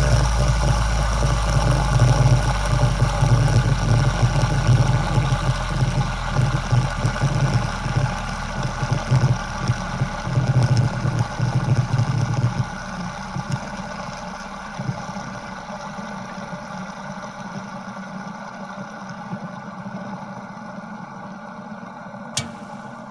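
An engine running steadily, loud at first and then gradually dying away over the second half. Near the end it cuts off abruptly into a different sound.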